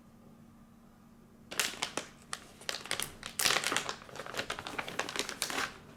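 Packaging of a posture corrector crinkling and rustling as it is handled and opened. The sound starts about a second and a half in and stops just before the end.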